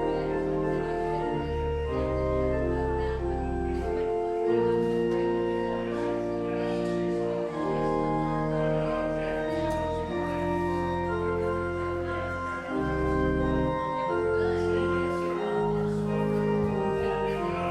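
Church organ playing sustained chords over slow-moving low bass notes.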